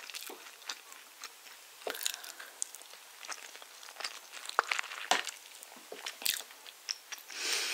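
Close-miked chewing of soft spiced orange cake: quiet, scattered wet mouth clicks and soft crackles, with a few sharper clicks a little after the middle.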